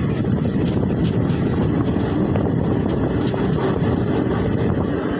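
Steady rumble of a passenger train running along the track, heard from on board, with faint repeated ticking over it.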